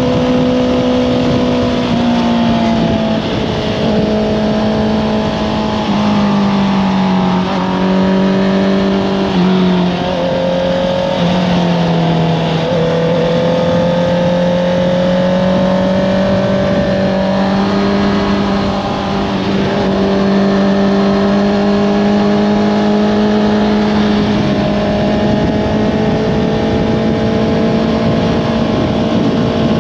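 Honda CBR650R's inline-four engine, fitted with an Akrapovič exhaust, running at high revs while riding. Its pitch drops and recovers several times in the first half as the throttle comes off and on, then rises gradually and holds steady.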